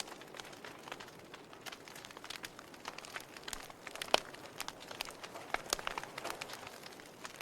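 Fire crackling: irregular sharp pops and snaps over a soft hiss, with one louder pop about four seconds in.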